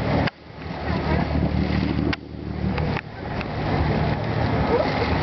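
Boat engine running steadily, with wind and water noise over it. The sound breaks off abruptly three times and comes back.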